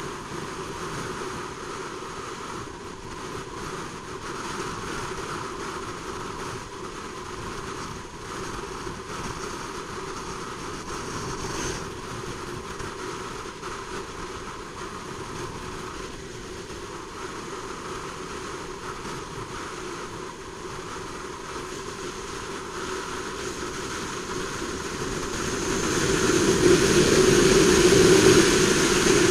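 Honda CBR600RR inline-four engine running under way, mixed with wind and road noise, swelling louder for a few seconds near the end.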